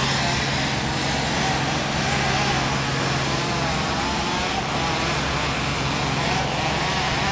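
A steady engine drone: a constant low hum under an even wash of noise, with no strokes or changes.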